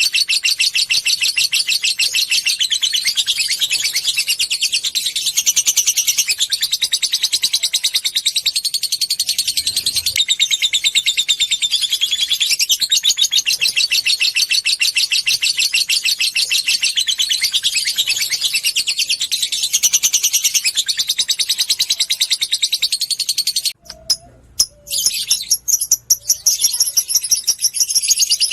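Lovebird's long, rapid, high chattering song ('ngekek panjang'), a fast unbroken run of shrill notes that breaks off briefly about 24 seconds in and then resumes.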